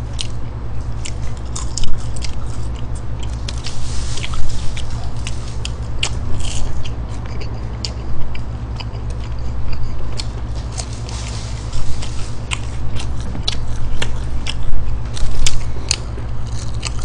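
Close-miked chewing and biting of McDonald's French fries and fried chicken, with many small sharp crackles and crunches, over a steady low hum.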